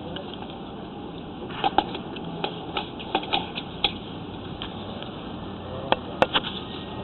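Irregular sharp clicks and taps of sewer inspection camera equipment being handled as the camera cable is pushed back down the line, over a steady background hiss. The clicks come in a cluster from about one and a half to four seconds in, and twice more near six seconds.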